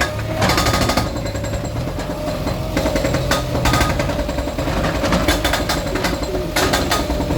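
Diesel engine of a demolition bulldozer running steadily, with short bursts of rapid rattling clatter every second or two.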